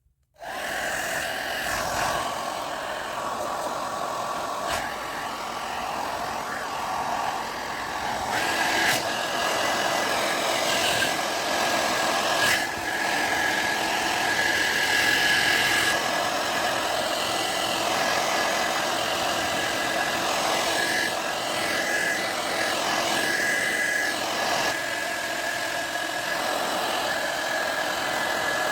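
John Frieda hair dryer switched on and running, its fan motor blowing a loud, steady rush of air with a steady high whine.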